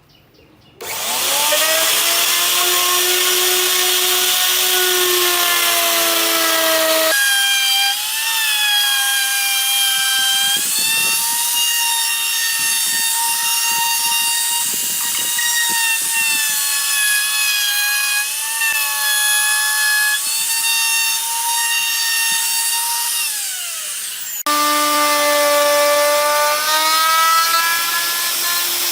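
An electric power tool's motor spins up about a second in, then runs with a steady whine whose pitch dips and recovers as it bears on the work. Its pitch jumps abruptly twice.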